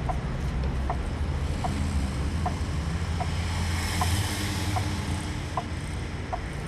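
Steady low rumble of a vehicle engine, with a short high chirp repeating about every three-quarters of a second and a hissing swell that rises and falls around the middle.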